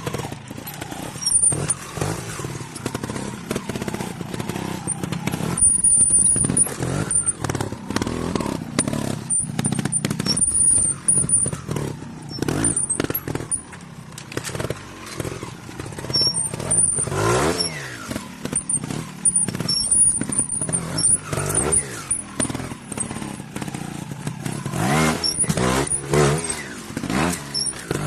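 Trials motorcycle engine revving in repeated bursts, its pitch rising and falling, with short high squeaks now and then.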